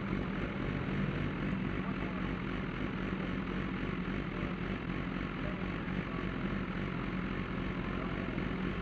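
A steady droning hum, like an engine or motor running at a constant speed, unchanging in pitch.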